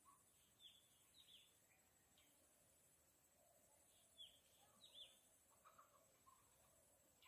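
Faint bird chirps over near silence: a few short, downward-sweeping notes in small clusters, about a second in and again around the middle.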